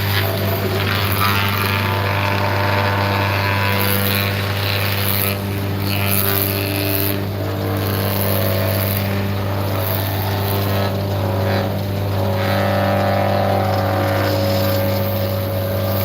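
A workshop machine's electric motor running steadily with a strong even hum, while a higher hiss swells and fades every second or two as the load on it changes.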